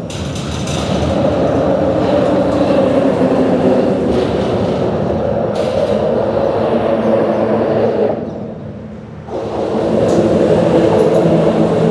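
Steady, loud mechanical rumble with several humming tones, dropping away for about a second near the end, then coming back.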